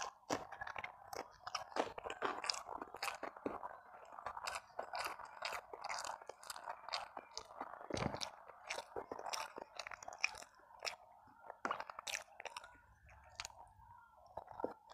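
Close-miked chewing and crunching, with many small wet mouth clicks, from a person eating by hand: biting raw green bird's-eye chilies, then fried tempeh and rice.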